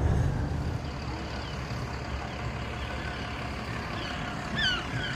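Double-decker bus engine and road noise, a steady low rumble heard from the top deck. Near the end a few short, high chirps fall in pitch.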